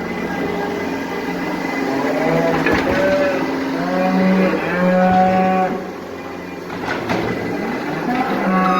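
Cattle mooing: several long calls one after another, and another near the end, over the steady drone of an engine running.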